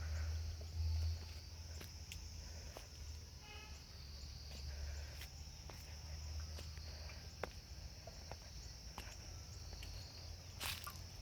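Insects droning steadily at one high pitch, with scattered footsteps and a low rumble on the microphone.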